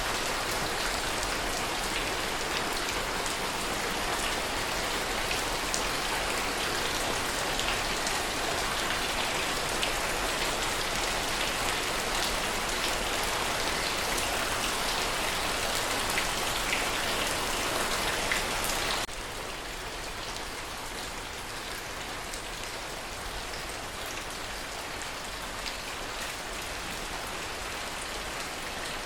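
Steady rain, a dense hiss with scattered drop ticks, which drops abruptly to a quieter, softer rain about two-thirds of the way in.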